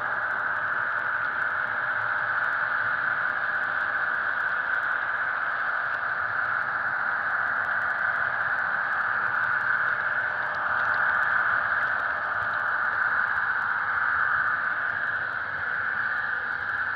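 Simulated diesel locomotive engine sound from a Soundtraxx Tsunami sound decoder in an HO-scale model locomotive, running steadily and heard thin and tinny through the model's small speaker, with a faint hiss.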